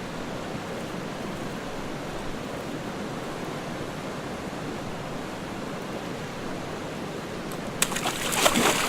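Steady rush of flowing stream water, turning louder and splashier near the end.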